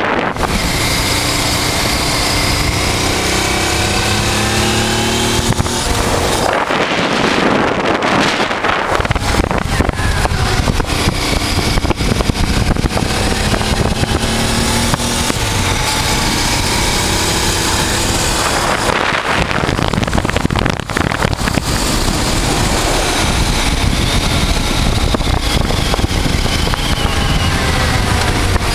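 A 1988 Honda Transalp's 600 cc V-twin engine running under way, its pitch climbing several times as it accelerates and easing off between, with steady wind noise over the microphone.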